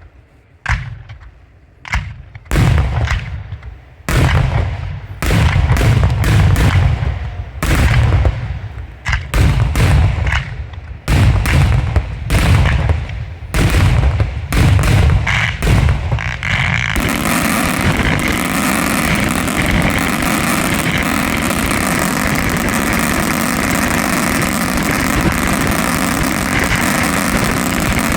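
Fireworks display going off: a quick series of loud bangs, about one or two a second and growing denser, then, a little past halfway, an unbroken steady din with no separate bangs.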